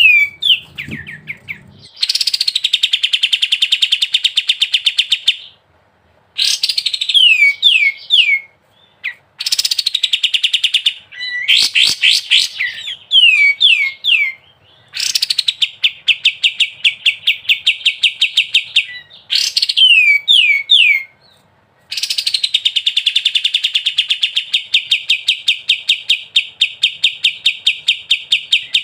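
Kapas tembak (pied triller) singing in repeated phrases: a few quickly falling whistled notes, then a long, rapid, rattling trill held at one pitch for several seconds. This long trill is the 'ngebren' song that bird keepers prize in a bird in full voice.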